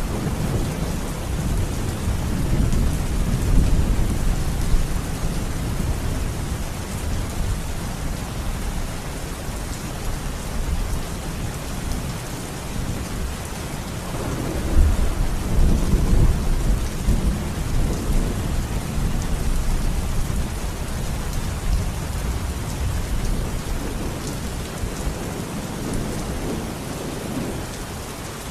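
Thunderstorm: steady rain with rolling thunder, the rumble swelling at the start and again about halfway through, then easing off near the end.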